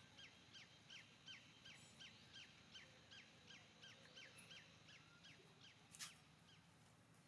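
A bird calling over and over, short falling chirps about three a second, faint against the outdoor background; the chirping stops a little before the end, and a single sharp click follows.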